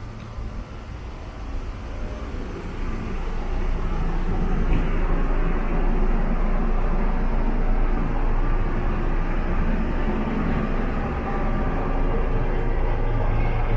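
Steady low hum and rumble inside a standing narrow-gauge electric railcar, growing louder over the first few seconds, with a single click about five seconds in.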